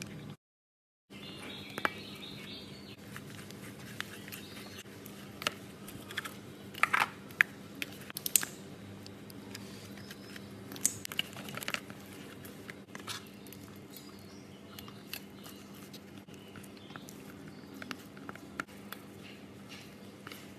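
Slime being squished and stretched by hand, giving irregular sticky crackles and small pops, thickest in the middle stretch.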